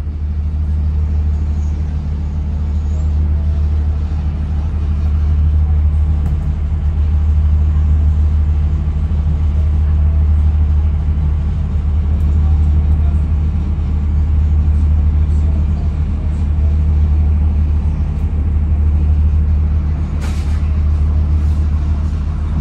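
Steady low rumble of a diesel passenger train running along the line, heard from inside the carriage, with one brief sharp knock about twenty seconds in.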